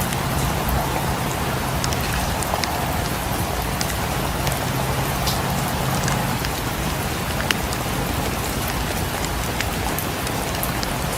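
Steady rain falling, with scattered sharp ticks and pops over an even hiss and a low rumble.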